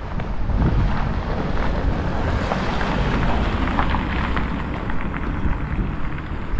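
Wind buffeting the microphone in a steady low rumble, with a broader rushing swell through the middle.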